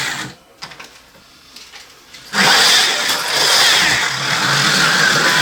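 Slot cars at rest with a few faint clicks, then about two and a half seconds in the 1/43-scale rally slot cars' small electric motors start up and run at speed on the plastic track: a loud, steady howling whine.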